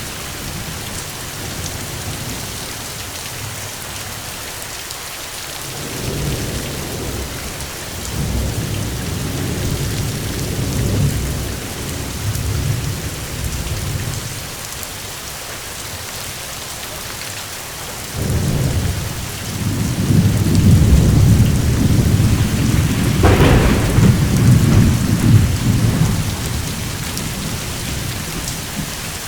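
Steady rain with rolling thunder. A softer rumble builds a little after the start, then a longer, louder rumble swells in the second half with a sharper crack at its peak before fading back to the rain.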